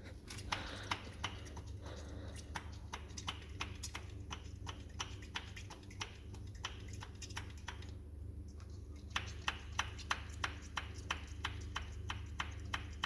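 Rapid, regular mechanical clicking, about three clicks a second with a brief pause a little past the middle, over a steady low hum.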